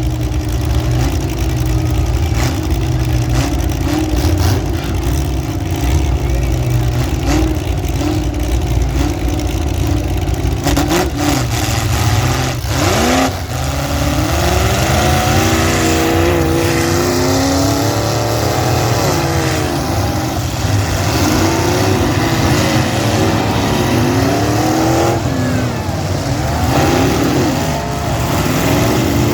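Several demolition derby cars' engines revving up and down over and over, with a few sharp knocks in the first half.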